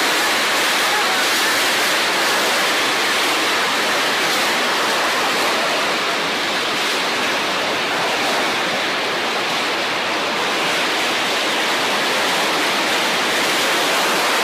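Loud, steady rushing noise of a storm: strong wind and heavy rain, without a break.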